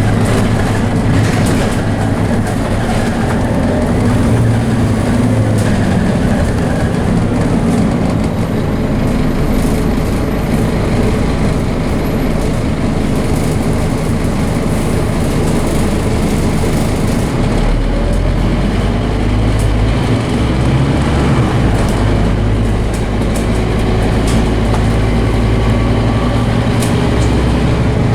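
Scania DC9 five-cylinder diesel of a double-decker bus running as the bus drives, its note shifting up and down through the ZF automatic gearbox, with a deeper low drone from a little past halfway. Scattered clicks and rattles sound over the engine.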